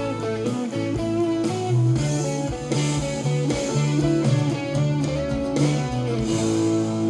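Recorded band music played back through a digital mixer for a virtual sound check: electric guitar over a moving bass line with a steady beat, settling into a held, ringing chord about six seconds in.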